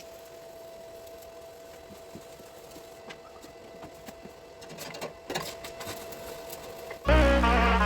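Faint steady hum with a thin whine and scattered light clicks and knocks. About seven seconds in, loud music with a heavy bass begins.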